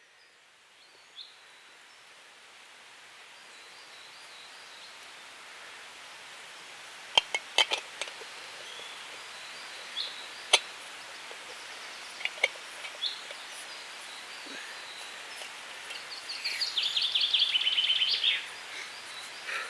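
Woodland birds singing in spring: scattered short chirps over a steady hiss that fades in at the start, a few sharp clicks, and a fast, loud trill of repeated high notes near the end.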